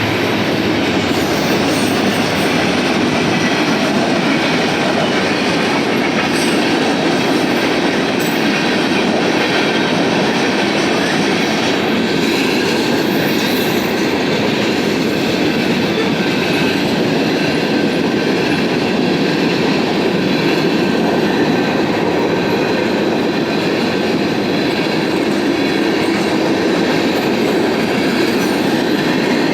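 BNSF freight train cars rolling past, a steady, loud noise of steel wheels running on the rails that holds even throughout.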